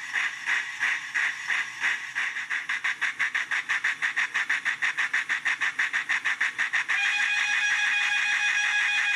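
Accurascale J68 0-6-0T model locomotive's DCC sound decoder playing steam exhaust chuffs through its small speaker, the beats quickening as the engine picks up speed. About seven seconds in, a steady locomotive whistle sounds over the chuffs for a few seconds.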